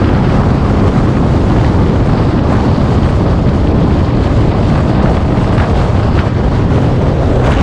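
Car driving at speed: steady engine, exhaust and road noise with heavy wind buffeting the microphone.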